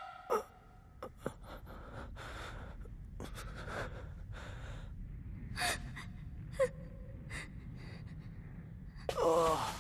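A person gasping, with short breathy sounds scattered over a low steady hum. Near the end comes a longer wavering cry in the voice.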